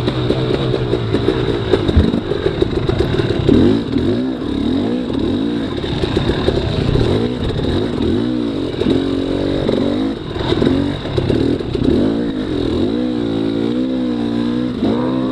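Two-stroke dirt bike engine revving up and down over and over as the throttle is worked, with some rattling from the bike.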